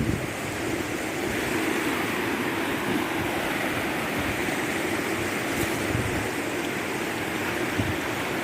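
Rushing river water pouring over rocks, a steady full rush.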